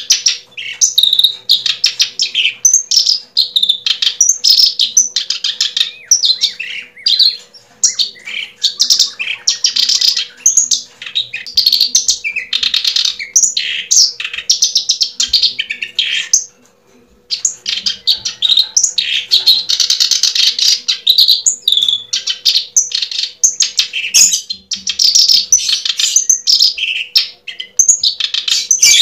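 Many small birds chirping and trilling together in a dense, continuous chorus, broken by a brief pause a little past halfway. A faint steady hum runs underneath.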